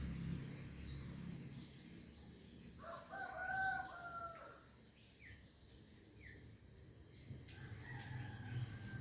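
A rooster crowing once, a drawn-out call about three seconds in, followed by two short bird chirps and a fainter call near the end.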